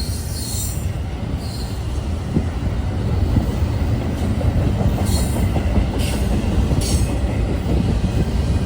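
Intermodal freight train rolling past: a steady rumble of wheels on rail, with short high-pitched wheel squeals several times.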